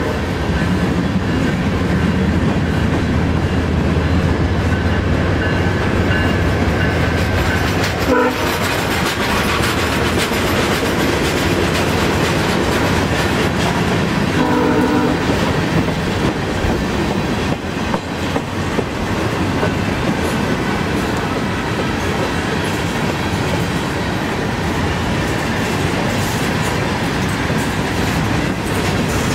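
A VIA Rail passenger train and a long CN freight train passing on adjacent tracks: loud, steady rumble and clatter of wheels on rail. Two short horn toots come about 8 and 15 seconds in.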